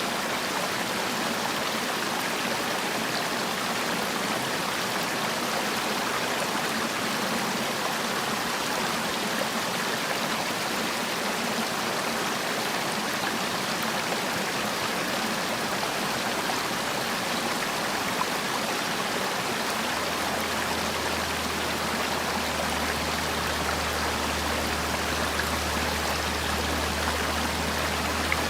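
Mountain stream water rushing steadily over rocks. A low steady hum joins underneath about two-thirds of the way in.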